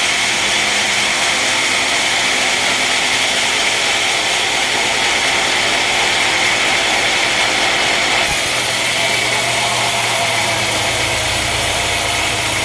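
Sawmill machinery running steadily with a constant loud noise. About eight seconds in the sound changes abruptly, and a steady low engine hum joins it.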